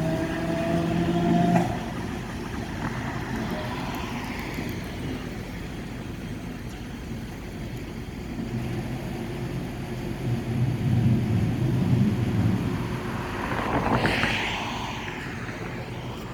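Electric streetcar motor whining as its pitch rises, cutting off about a second and a half in, then steady street traffic noise with a vehicle swelling past near the end.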